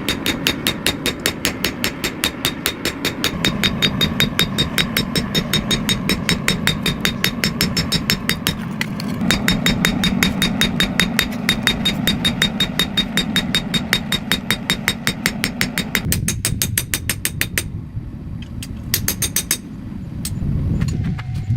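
Power hammer pounding hot steel at a fast, even rate of about five blows a second over the hum of its motor. The blows stop about sixteen seconds in, and a short run of a few more blows comes near the end.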